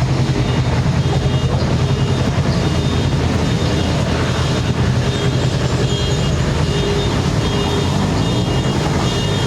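Steady street noise of motor traffic, a continuous engine hum with no single vehicle standing out.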